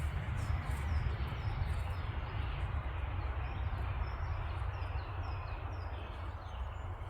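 A small bird singing a run of short, high, falling notes, two to three a second, over a steady low rumble of wind on the microphone.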